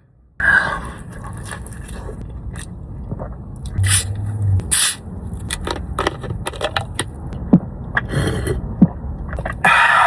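Close-miked eating sounds of butter chicken: chewing and biting, with scrapes and many short clicks and crackles from the food and its container.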